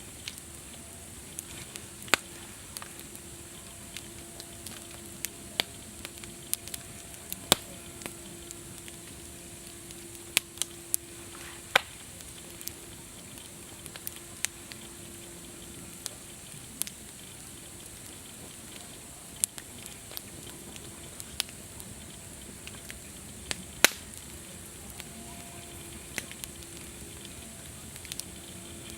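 Wood campfire crackling: irregular sharp pops and snaps, a few much louder than the rest, over a steady soft hiss.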